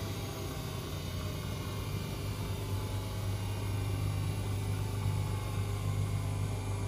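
Washing machine running mid-cycle: a steady low motor hum with a faint whine that drifts slowly in pitch.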